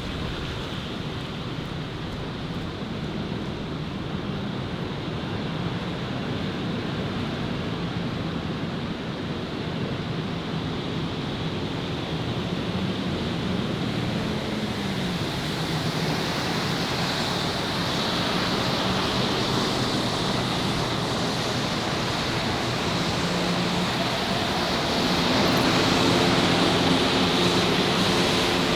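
Steady city street noise of traffic going by, swelling gradually louder through the second half, with a faint engine hum coming in near the end.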